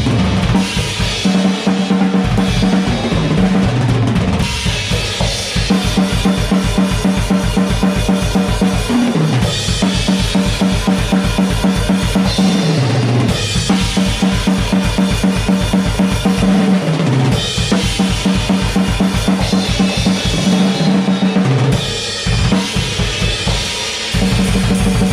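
Drum kit played fast over heavy music, with a rapid, even stream of bass drum strokes and snare hits. Low sustained notes under the drums slide down in pitch several times.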